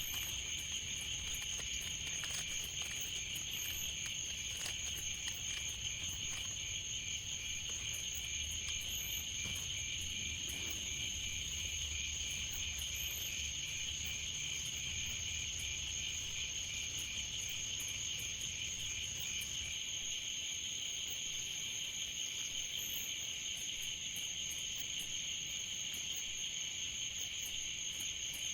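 Steady chorus of crickets or similar insects: a continuous high trilling with a fine, even pulse. Faint scattered ticks and a low rumble sit underneath, and the rumble fades out about two-thirds of the way through.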